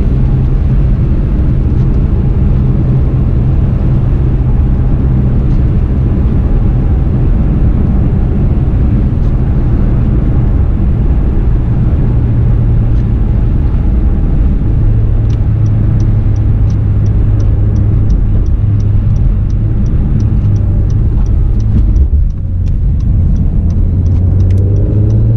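Cabin sound of a 2017 Acura NSX's twin-turbo V6 hybrid powertrain driving at city speed in Sport Plus mode: a steady low engine drone with road noise. In the second half a light, regular ticking comes in, about two ticks a second. Near the end the sound dips briefly, then the engine note rises as the car pulls away.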